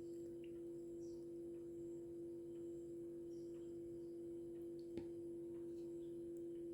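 A steady, even hum on one low tone, with faint short high chirps and a single sharp click about five seconds in.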